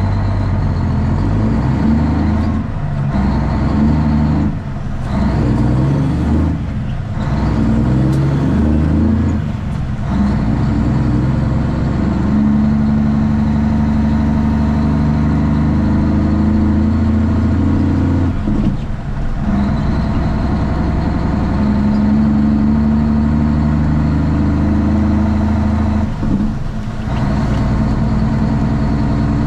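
Straight-piped Cummins ISX diesel in a Kenworth T800 running under way, heard from inside the cab. The engine note holds steady pitches and then changes abruptly, several times in the first third, and drops out briefly twice later on, as it moves between gears.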